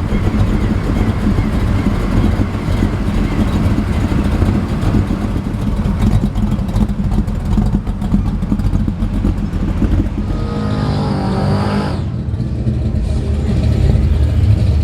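Deep, steady engine rumble of classic cars cruising slowly, briefly joined by a higher, wavering engine note about ten seconds in.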